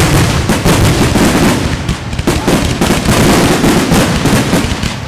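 Aerial fireworks shells bursting in a rapid, continuous barrage, booms and crackle overlapping with hardly a pause.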